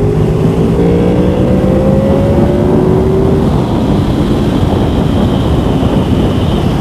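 Motorcycle engine accelerating hard under full throttle, its pitch rising for about the first three seconds, then giving way to a steady rush of wind noise.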